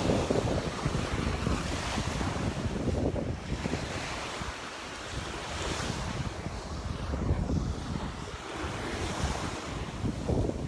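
Waves breaking on a sandy beach, surging a few times, with wind buffeting the microphone.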